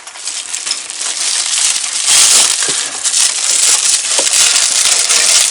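Plastic bubble wrap crinkling and crackling as it is pulled off a small fuel transfer pump, growing louder over the first two seconds and then continuing densely.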